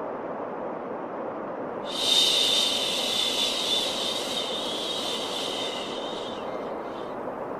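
A long shushing 'shhh' sound for soothing a baby, starting about two seconds in and lasting about four seconds, over a steady low white-noise hiss.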